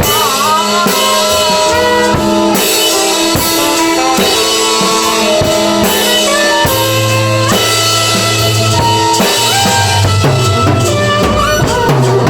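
Live improvised band music: a drum kit playing under held and sliding notes from other instruments.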